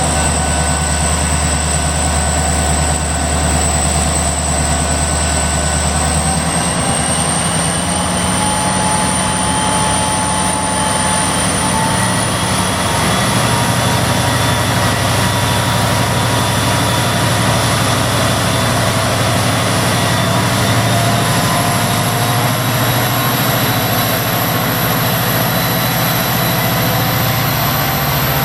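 Victorian Railways C class diesel-electric locomotive C501, its turbocharged EMD V16 two-stroke diesel running loud under throttle. Engine speed steps up about six seconds in and again a few seconds later, while a high turbocharger whine climbs slowly in pitch.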